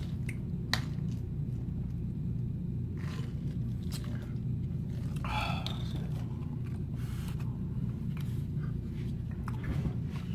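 A person eating: chewing and biting food, with scattered short mouth and utensil clicks, over a steady low rumble.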